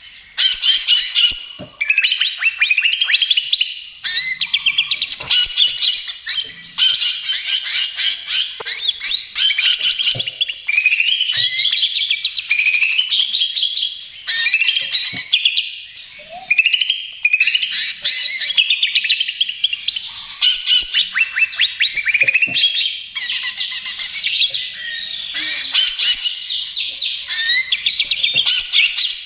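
Cucak ijo (green leafbird) singing without pause in the rapid 'trotol' style, which bird-keepers call gacor: fast rattling trills run into gliding whistled phrases, with only brief breaks between bursts.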